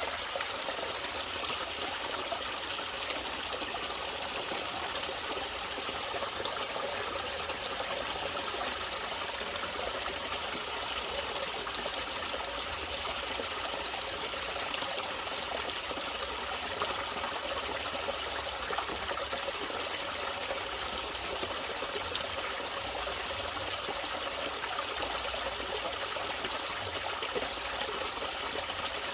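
Natural running water trickling and flowing steadily, an even rush with no breaks or changes.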